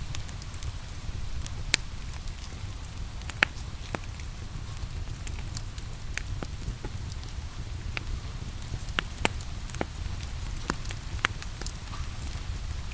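Wood fire crackling, with sharp pops at irregular intervals over a steady low rumble, mixed with the steady hiss of rain. The two sharpest pops come a couple of seconds in and again about three and a half seconds in.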